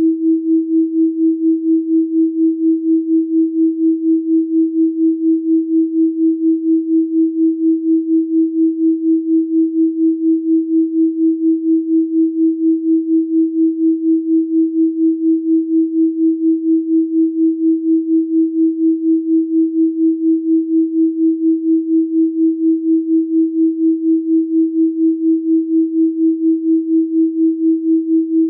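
A steady electronic sine tone at 324 Hz, a single pure pitch that pulses evenly in loudness a few times a second.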